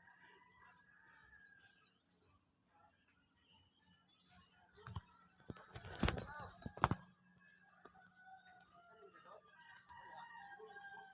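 Faint birds chirping in short repeated calls, with a brief louder burst of rustling and knocks about five to seven seconds in.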